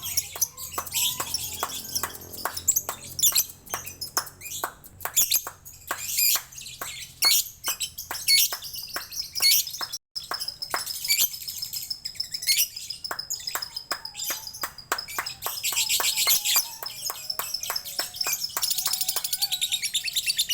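Songbird singing a long, unbroken song of rapid high chirps and clicks, with a held high note midway and a fast even trill near the end.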